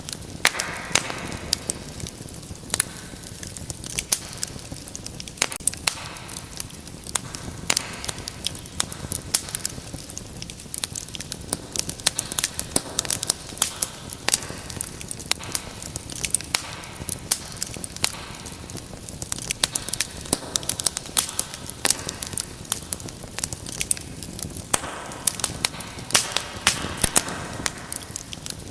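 Wood fire in a fireplace crackling and popping: many sharp, irregular pops over a steady low rush of flames.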